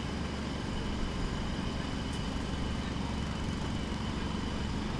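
Distant jackhammer running steadily, heard through the hum of urban street noise.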